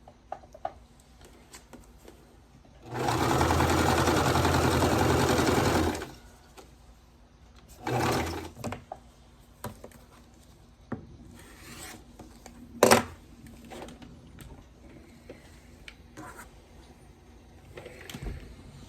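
Sewing machine stitching a seam in a steady run of about three seconds, then a shorter burst of stitching about two seconds later, as fabric pieces are joined for a quilt block. A single sharp click follows later.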